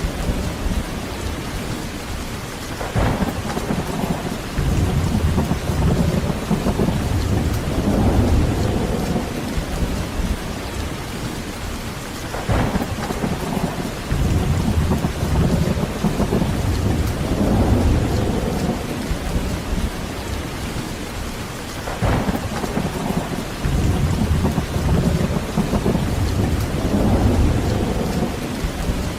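Heavy rain falling steadily, with thunder rumbling low and rolling almost continuously. A sharper clap starts a new roll three times, about every nine seconds.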